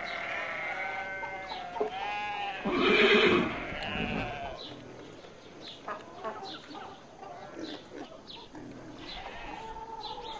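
Farm animals calling: pitched calls with a wavering pitch over the first few seconds, then a loud rough burst about three seconds in, followed by fainter scattered short chirps.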